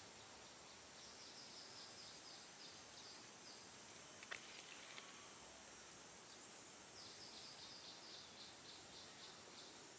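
A small bird singing faintly: two runs of quick, high, down-slurred notes, several a second, the second run starting about seven seconds in. There is a single sharp click near the middle, over a steady faint hiss.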